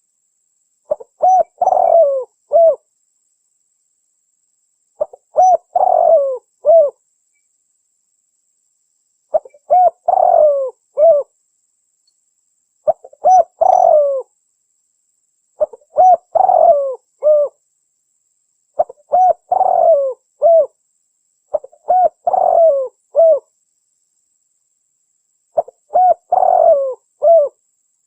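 Spotted dove (tekukur) cooing: a short phrase of several coos, repeated eight times at intervals of three to four seconds with silence between. It is a lure-call recording played to draw in wild doves.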